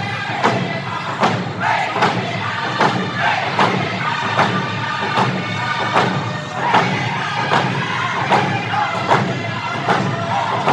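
Live band music with a steady drum beat and a crowd of voices singing along.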